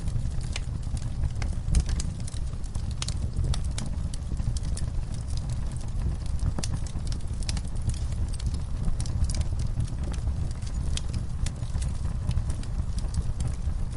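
Wood fire burning in a fireplace: a steady low rumble of flames with irregular sharp crackles and pops, several a second, some louder than others.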